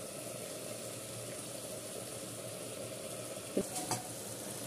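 Soft, steady sizzling of tomatoes frying in oil in a clay pot as chopped coriander leaves go in. There are two light knocks near the end, from the wooden spatula touching the pot.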